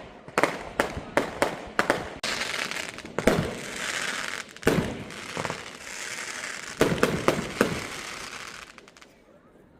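Fireworks going off: a rapid series of bangs with a long stretch of crackling in the middle, dying away near the end.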